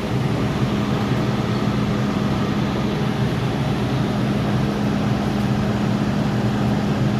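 MTR Tsuen Wan Line M-Train electric multiple unit running at steady speed through the tunnel, heard from inside the car: an even rumble and hiss with a constant low hum.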